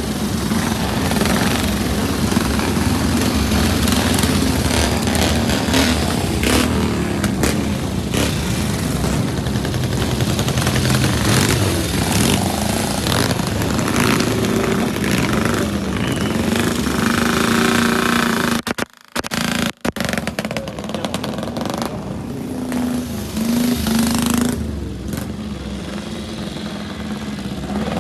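Vintage Grand Prix racing motorcycle engines running loudly, the revs rising and falling. The sound drops out briefly twice a little past halfway.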